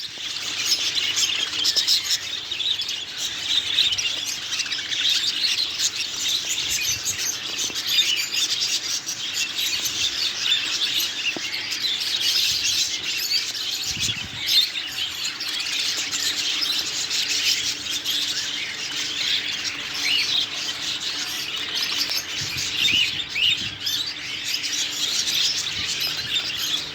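A chorus of many caged pet birds chirping and chattering over one another without a break, with the odd squawk.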